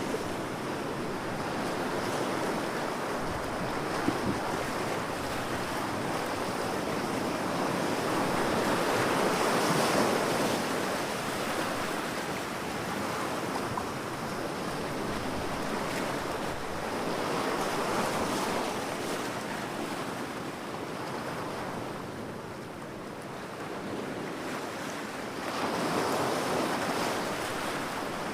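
Ocean waves breaking and washing on a beach, a steady surf rush that swells and eases every several seconds, with the loudest swells about a third of the way in, past halfway and near the end.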